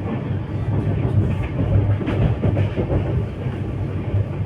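Mumbai suburban local train running along the track: a steady low rumble with scattered rail clacks.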